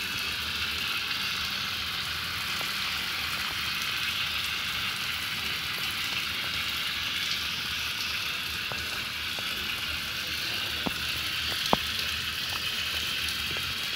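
Water from a tap spraying in a steady hiss, used as artificial rain to bathe a caged bird, with a few sharp ticks of drops or taps near the end.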